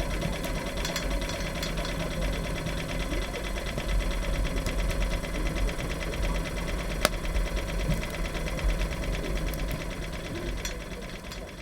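An engine running steadily with a low rumble and an even, fast repetitive knock, fading out near the end.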